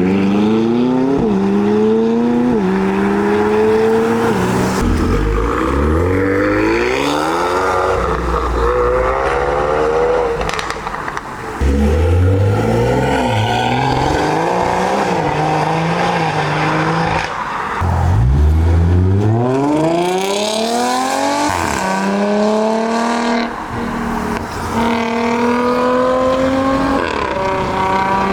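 Several high-performance car engines accelerating hard one after another, each revving up through the gears with sharp upshifts. The loudest pulls come near the start and again about two-thirds of the way in.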